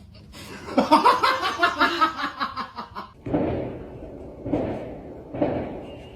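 A burst of rapid laughter for about two and a half seconds, then four short, loud sounds about a second apart, each starting sharply and fading.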